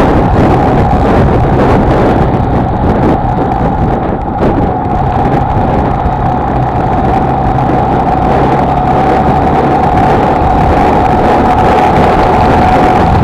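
Honda XLR125R's air-cooled single-cylinder four-stroke engine running at a steady cruising speed while riding, with a steady drone and wind rush on the microphone.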